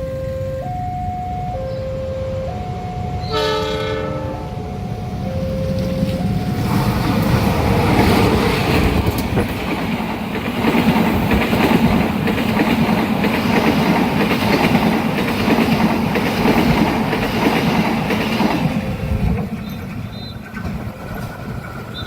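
Level-crossing warning alarm alternating between two notes, cut across about three and a half seconds in by a short blast of a locomotive's horn. Then a train passes at speed through the crossing for about twelve seconds, with rolling wheel and rail noise, easing off near the end.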